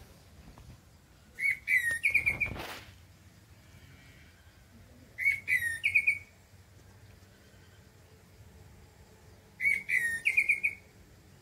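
A songbird singing the same short phrase three times, about four seconds apart: a falling whistled note followed by a quick run of short notes. A brief burst of noise comes about two seconds in.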